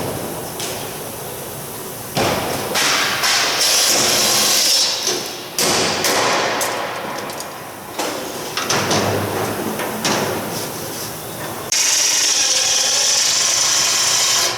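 Power tools running in the workshop in loud stretches of several seconds each, starting and stopping abruptly, with knocks in between.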